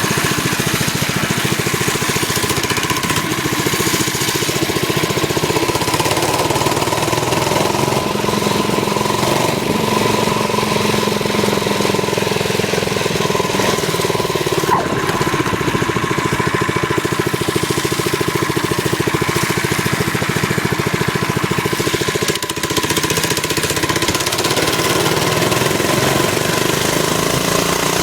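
Harbor Freight Predator single-cylinder four-stroke engine on a Baja Doodlebug minibike running steadily while riding, with a short dip in the engine note about 22 seconds in.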